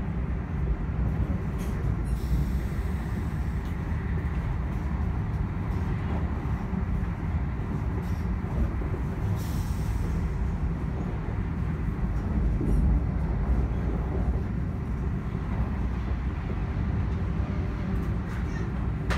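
Steady low rumble of a moving train, heard from inside the passenger cabin.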